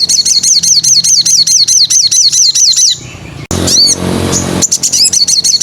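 Sogon songbird singing a fast, loud trill of repeated high, curving notes, about seven a second. The trill stops about three seconds in, a brief different phrase follows, and the trill starts again. It is a lure recording of a wild, energetic sogon, used to draw or tutor other birds.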